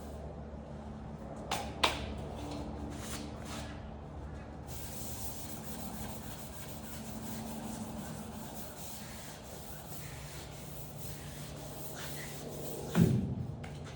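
A few sharp knocks and clicks, two early on and a louder one near the end, over a steady low hum.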